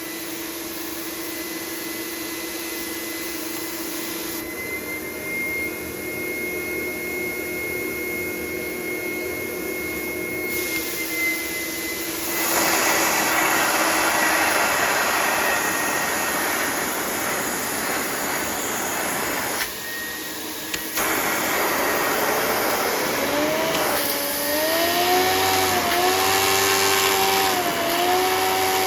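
A vacuum-cleaner-type motor and fan running, with rushing air and a steady whine. It gets louder about twelve seconds in, dips briefly near the middle, then a new whine rises in pitch and wavers up and down near the end.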